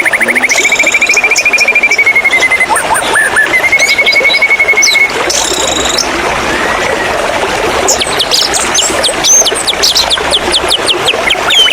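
White-rumped shama singing: a fast, even trill held for a couple of seconds and repeated, mixed with high whistled chirps, then a quick run of sharp notes near the end. Under it runs a steady rush of flowing water.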